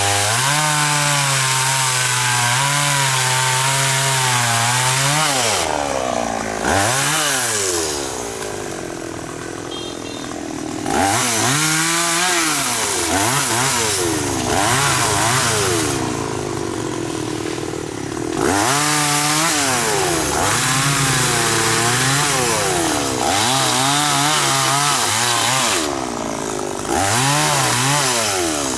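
Chainsaw engine running hard, its pitch swinging up and down as the throttle is worked while cutting khaya trees. Twice it drops back for a few seconds to a quieter, lower running.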